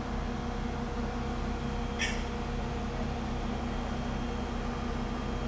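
Steady low mechanical hum with a constant noise bed, and one brief high-pitched squeak about two seconds in.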